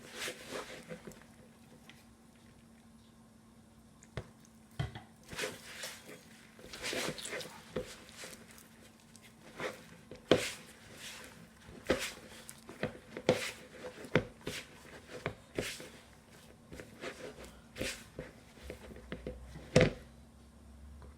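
Soft bread dough being mixed in a bowl as milk is added a little at a time: irregular squelches and knocks against the bowl, the sharpest about ten seconds in and near the end, over a faint steady hum.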